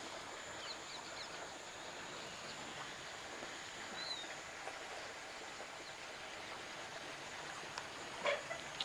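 Quiet rural outdoor ambience: a few faint bird chirps, one of them about four seconds in, over a steady high-pitched tone, with a short louder sound near the end.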